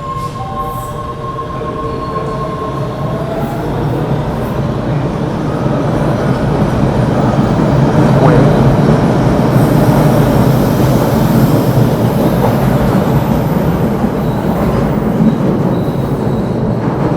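Train running on rails, growing louder over the first eight seconds or so and then holding steady. High thin squeal tones from the wheels fade out in the first few seconds.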